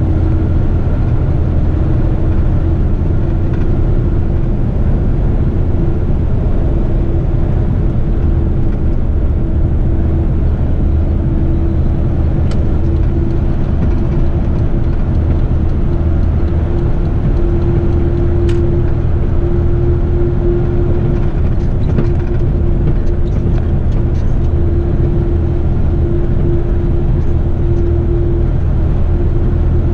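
Heavy rigid truck's diesel engine running steadily under way, a constant low drone with road noise.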